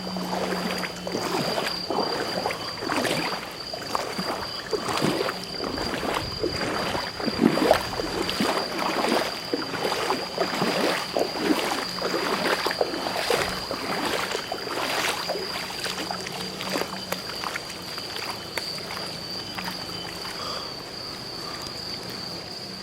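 Floodwater splashing and sloshing irregularly, easing off over the last few seconds, over a steady high-pitched insect chirring.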